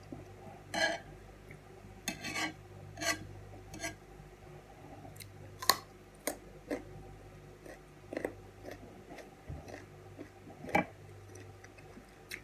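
Short crisp crunches and clicks of a raw carrot stick being bitten and chewed close to the microphone, at first with a table knife scraping soft cheese onto the carrot.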